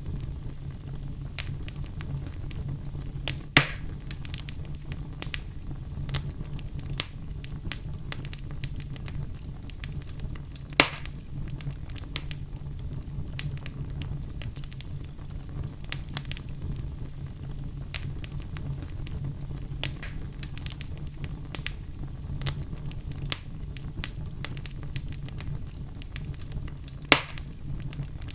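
Fire burning in a fireplace, crackling with frequent small snaps over a steady low rumble, and three louder pops: one about four seconds in, one near the middle and one near the end.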